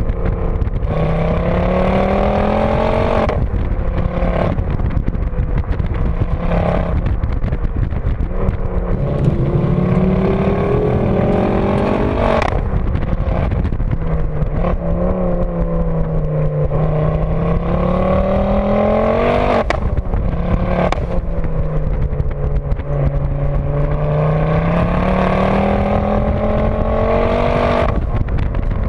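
Ford Focus RS mk2's turbocharged 2.5-litre five-cylinder engine, tuned to about 380 hp, pulling hard under load, its pitch climbing steadily and then dropping sharply at each upshift, about four times.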